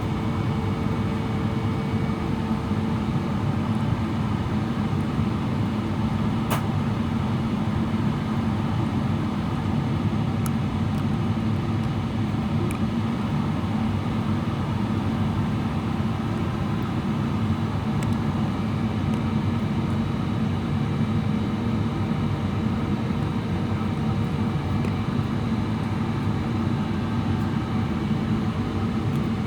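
Steady cabin noise of a Boeing 777-300ER on approach: its GE90 engines and the airflow make a continuous low drone with a steady hum, heard from inside the cabin. A single sharp click about six and a half seconds in.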